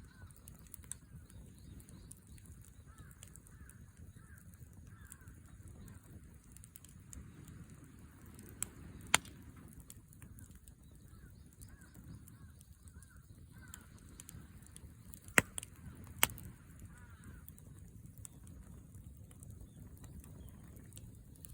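Wood fire burning in a campfire stand, with scattered sharp pops of burning wood. The loudest pop comes about nine seconds in and two more come a little after fifteen seconds. A low steady rumble and faint repeated chirping calls run underneath.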